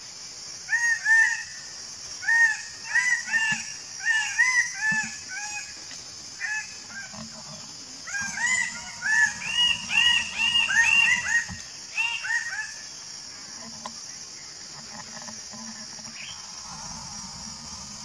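Bird-of-paradise calling: loud, nasal, honking notes, about two or three a second, in two bouts with a pause of a couple of seconds between them. The second bout is denser, with notes overlapping, and the calling stops about two-thirds of the way through.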